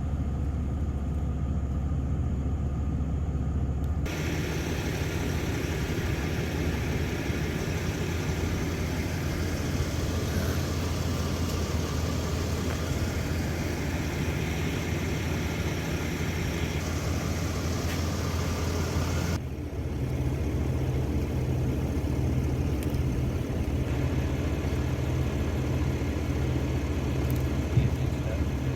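An engine running steadily, with a low, even hum. The sound changes abruptly about 4 seconds in and again about 19 seconds in.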